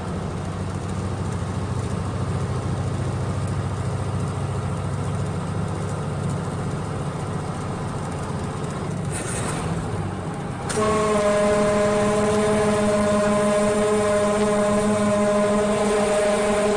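Steady low drone of a vehicle driving on the road; about eleven seconds in, a vehicle horn starts blaring and holds one steady, loud chord to the end.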